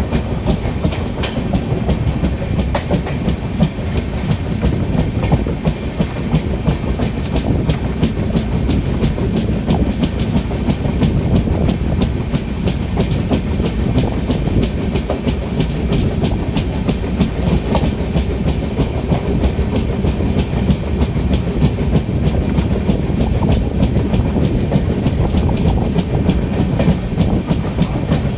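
Passenger train coach running at speed, heard from its open door: a steady low rumble with a fast run of wheel clicks clattering on the track.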